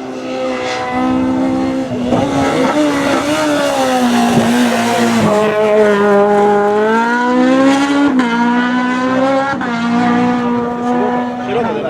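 VW Scirocco hillclimb race car's engine driven hard, its pitch climbing and dropping as it accelerates and eases off, with sudden drops at gear changes, most clearly about two-thirds of the way in and near the end.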